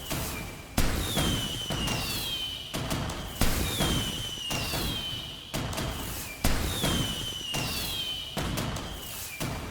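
Fireworks going off about once a second, each sharp bang followed by a thin whistle falling in pitch, over a continuous low rumble.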